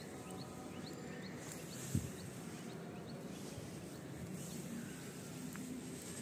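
A small bird repeating short rising chirps, about three a second, that stop about halfway through, over a steady low rumble. A single low thump about two seconds in is the loudest sound.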